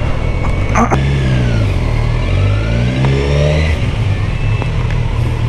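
Motorcycle engine under way, its pitch falling as it slows about a second in, then rising again as it picks up speed before settling.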